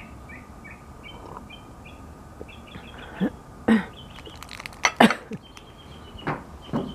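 A bird chirps repeatedly, about three short calls a second, through the first three seconds, with a few higher held notes later. From about three seconds in, several sharp knocks come irregularly, the loudest about five seconds in.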